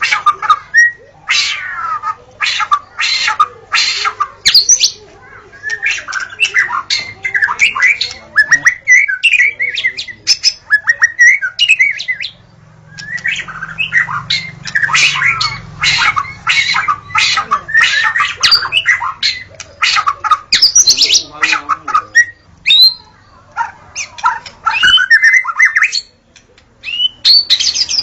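White-rumped shama (murai batu) singing a fast, varied song of sharp rattling notes, gliding whistles and chatter, broken by a few short pauses.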